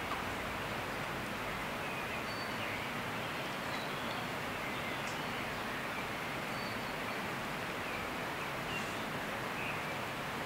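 Steady outdoor background hiss with faint, short bird chirps coming every second or two.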